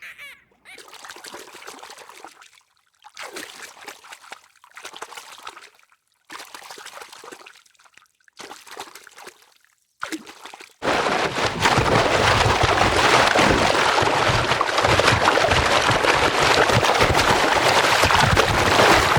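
Short, soft noisy bursts with gaps between them, then, about eleven seconds in, a sudden loud, steady rush of running water.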